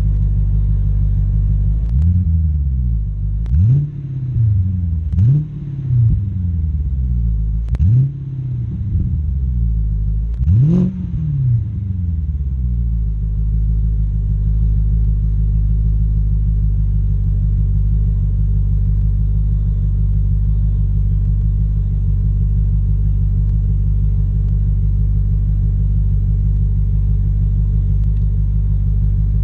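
BMW 545i's 4.4-litre V8 through a Magnaflow exhaust, blipped five times in quick revs that rise and fall back over the first dozen seconds, then settling into a steady idle.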